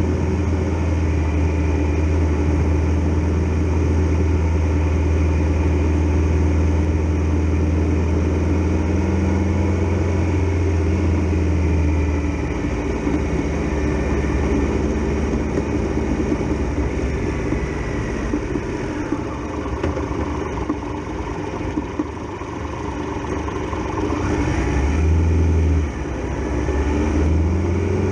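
Triumph Tiger Explorer XRx's three-cylinder engine running, steady for the first dozen seconds, then changing pitch as the throttle opens, with rises about two-thirds of the way through and again near the end.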